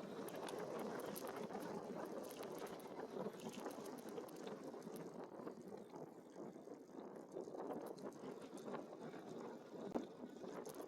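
E-bike rolling along a dirt trail: steady tyre noise over the ground with scattered small clicks and rattles, and one sharper knock near the end.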